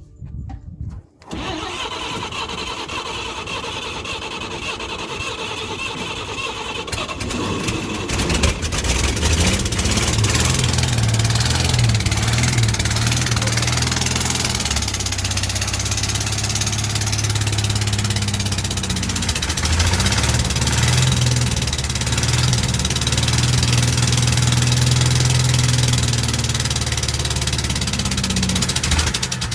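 1957 Chevrolet truck engine, cranked by its starter motor for about seven seconds, then catching about eight seconds in and running on, its speed wavering. This is its first start after sitting for many years.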